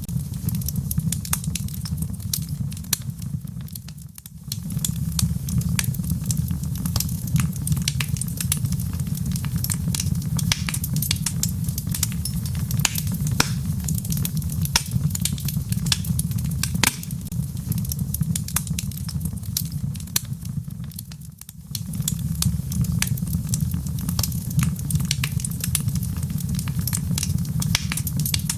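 Wood fire burning in a fireplace: logs crackling and popping in irregular sharp snaps over a steady low rumble of the flames. The rumble dips away briefly twice, about 4 and 21 seconds in.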